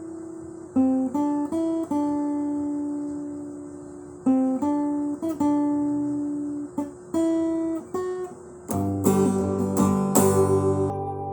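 Background music: an acoustic guitar picking single notes and short phrases that ring and fade, then strumming chords from about nine seconds in, which ring out at the end.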